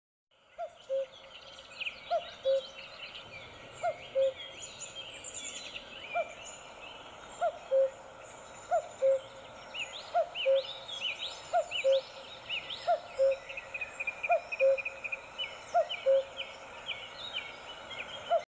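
Birds calling: a low two-note hoot, a short rising note followed by a lower one, repeated steadily about every second and a half, over higher chirps and twitters.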